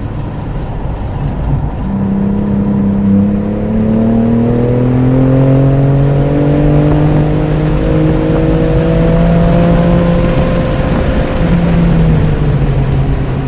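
BMW F80 M3 Competition's twin-turbo straight-six under load at speed, its note climbing slowly and steadily from about two seconds in as it pulls through one gear. Near the end the pitch drops away as the throttle comes off, over a steady rush of wind and tyre noise.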